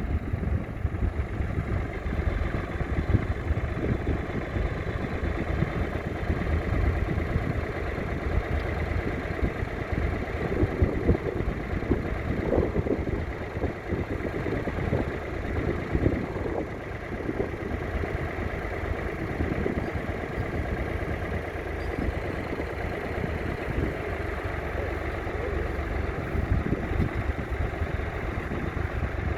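Ford 3000's 2.9-litre three-cylinder diesel engine running steadily, a low, rapid chugging with a slight swell about halfway through.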